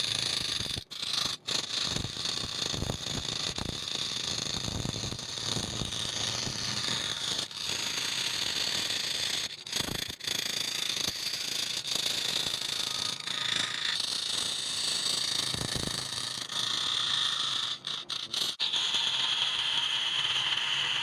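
Wood lathe running with a turning tool cutting into the spinning wood: a steady high hiss, broken by brief drop-outs a few times.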